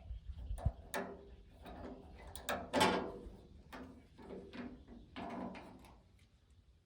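Metal hardware being worked into a pickup's steel tailgate: a series of scrapes and clicks, the loudest about three seconds in.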